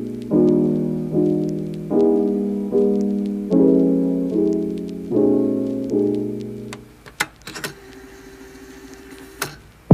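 Background piano music: slow, gently struck chords that ring and fade one after another. Near the end the piano thins out and a few sharp clicks are heard.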